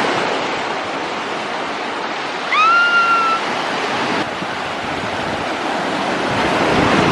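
Sea surf washing onto a beach, with wind buffeting the microphone. About two and a half seconds in, a short high tone rises and then holds for under a second.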